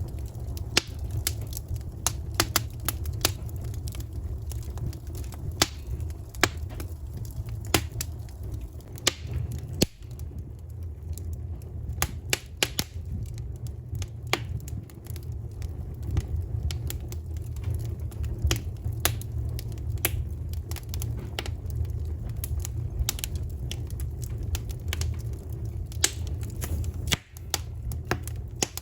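Wood fire crackling, with many irregular sharp pops and snaps over a low steady rumble.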